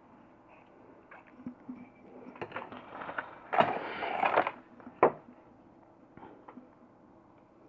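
Small parts and tools being handled during the repair: scattered clicks and taps, a brief rustling scrape about three and a half seconds in, and a sharp click just after it.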